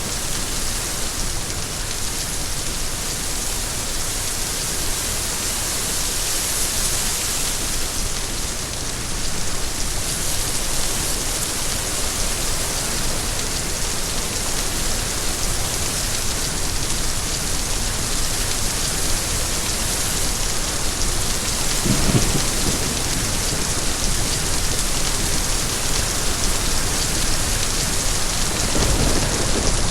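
Steady, dense rain falling, with a brief low rumble about two-thirds of the way in and another near the end.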